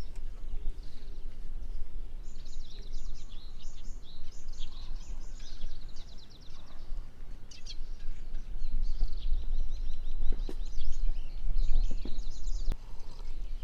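Birds singing in runs of fast, high trills over a steady low rumble, with a single sharp click near the end.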